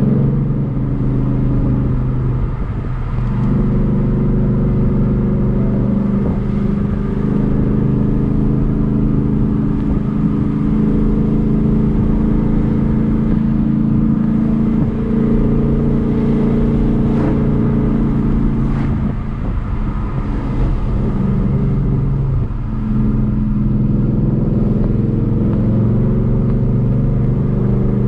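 Ford Mustang GT's 5.0 V8 engine and exhaust running under way, a steady deep drone. The note breaks off briefly a few seconds in and again past the middle, then picks up at a new pitch, as with a lift or gear change.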